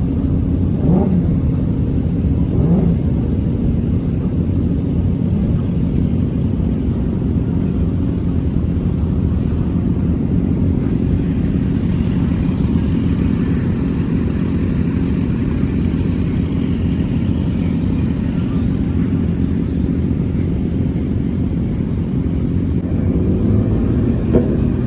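Car engine running, a steady low rumble, with a couple of brief rises in pitch in the first few seconds.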